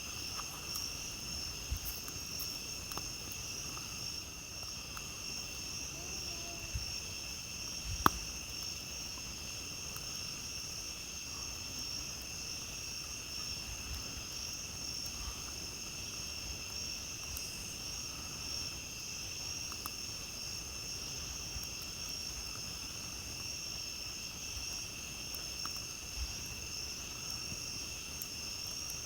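Night insects trilling steadily at two high pitches, with scattered faint pops and one sharper snap about eight seconds in from a campfire burning.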